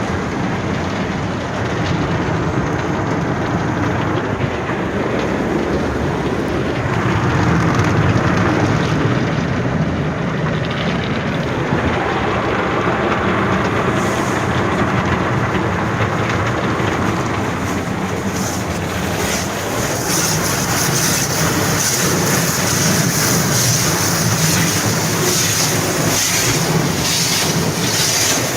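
Express tunnel car wash equipment running around a car passing through: a steady mechanical rumble with rushing water and brush noise. About two-thirds of the way through, a harsher, hissing noise comes in and stays loud.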